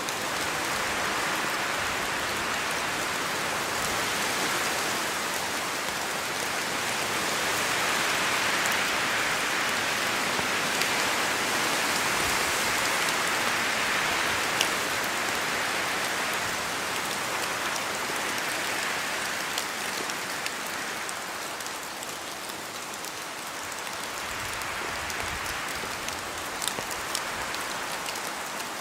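Steady rain falling through forest trees, with scattered individual drops ticking. The rain hiss swells for a few seconds in the middle and eases again, the way wind gusts through the canopy shake drops from the leaves.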